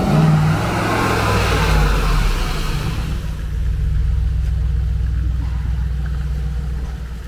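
Brabus-tuned Mercedes G-Class V8 driving slowly past at low revs: a steady low engine drone, with a louder swell of engine and tyre noise in the first three seconds as it passes close, then easing off.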